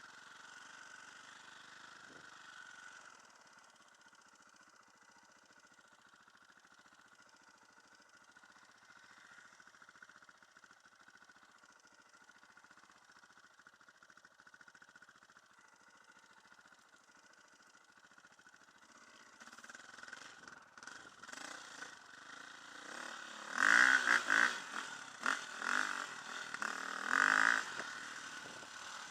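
Enduro dirt bike engine running low and steady at first, then picking up about two-thirds of the way in and revving in several loud bursts near the end.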